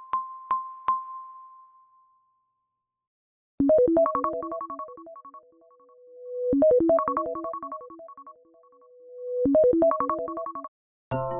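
Apple iPhone ringtones played back: one ends with three quick pings that fade away, then after a short pause another begins, a quick run of short notes followed by a swelling held tone, repeated three times. A different tune starts right at the end.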